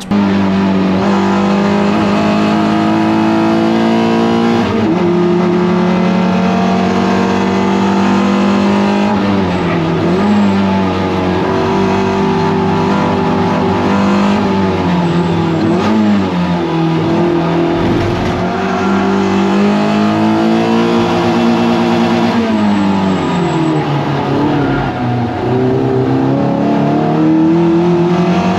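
Toyota MR2 Roadster race car's 1.8-litre four-cylinder engine at racing speed, its revs climbing through the gears and falling sharply on downshifts several times.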